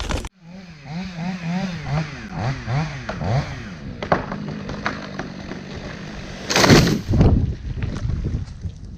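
Chainsaw running with its revs rising and falling, then a loud crash about six and a half seconds in.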